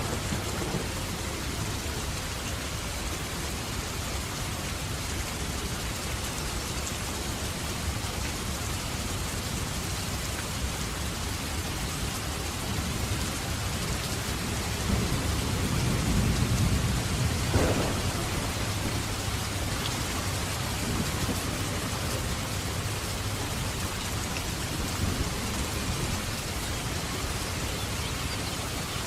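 Steady heavy rain falling, with a roll of thunder that builds about halfway through and peaks in a sharper crack before rumbling away.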